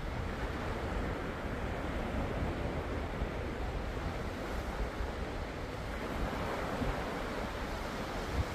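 Ocean surf: a steady, even rushing wash of waves, with no distinct swells or breaks standing out.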